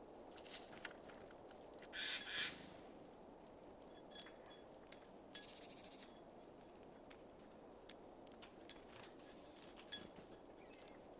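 Quiet outdoor ambience with a steady low background hiss, scattered with faint, short high bird calls and clicks, and a brief louder double call about two seconds in.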